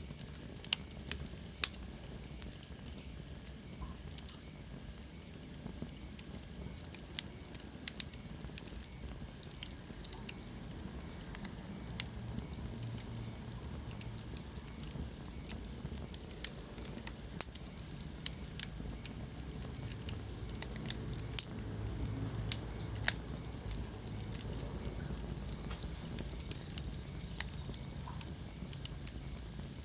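Wood fire burning in a fireplace: a low, steady rumble of flames with irregular sharp crackles and pops throughout. A faint high whistle slides down in pitch in the first few seconds.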